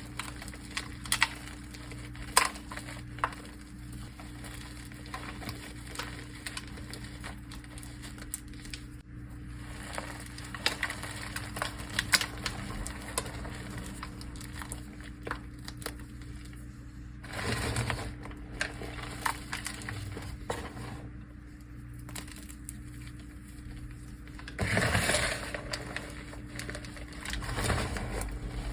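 A dry, dusty mud pie being crushed: a run of sharp crunches and crackles, with louder crumbling stretches about two-thirds of the way in and near the end.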